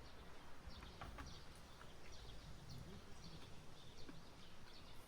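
Faint forest ambience with small birds chirping: many short, scattered high chirps over a low hush.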